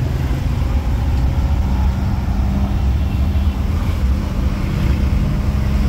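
Moving vehicle's engine and road noise: a steady low rumble with a faint, even hum above it.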